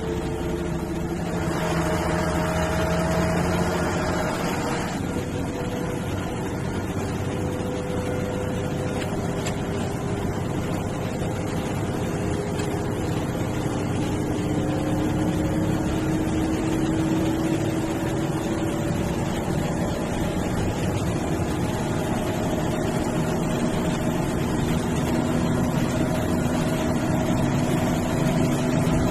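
MSRTC bus's diesel engine running under way, heard on board, its tones slowly rising and falling in pitch as speed and load change. About two seconds in, a rush of noise rises over it for a few seconds.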